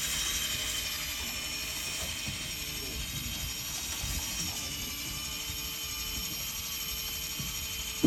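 Electric fishing reel winding in line with a steady motor whine and several high steady tones. A single sharp knock comes at the very end.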